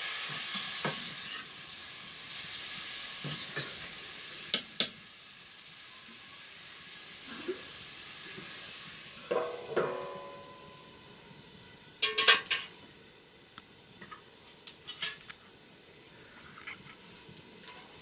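Vegetables sizzling in a wok over a wood fire as a metal spoon stirs and scrapes them, the sizzle fading over the first few seconds. Then metal pots and utensils clank, with a ringing clank nearly ten seconds in and a sharp clatter about twelve seconds in.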